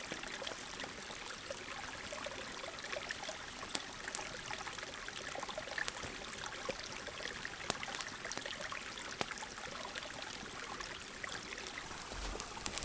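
Steady flowing water of a creek, with a few faint scattered ticks over it.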